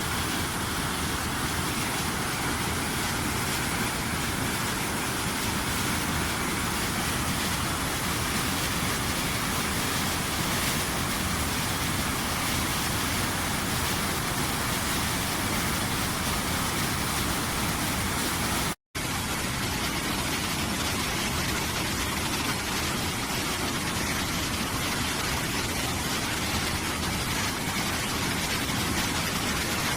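Waterfall rushing: a steady, even roar of falling water that cuts out for an instant about two-thirds of the way through.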